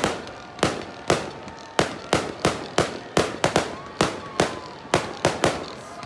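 Aerial fireworks display: a rapid series of sharp bangs, two or three a second, each trailing off quickly, with faint whistling tones between some of them.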